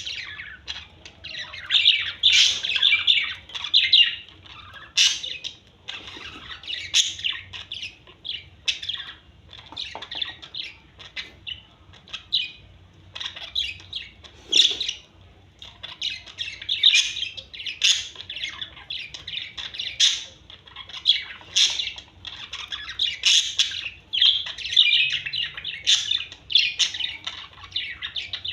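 Small pet parrots chattering nonstop in rapid chirps and squawks, presented as lovebird mating calls.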